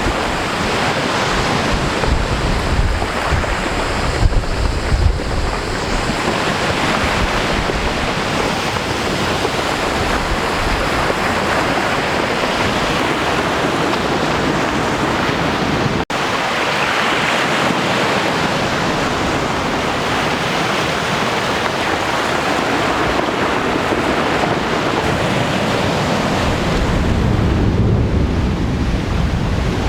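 Sea surf washing steadily with wind gusting over the microphone. The sound drops out for an instant about 16 seconds in.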